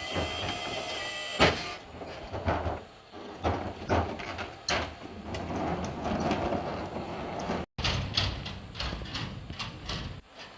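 Ford F-250 recycling truck with a Par Kan EZ Dump body working: a steady mechanical whine that stops with a loud bang about one and a half seconds in, followed by a run of irregular metal clanks, knocks and rattles.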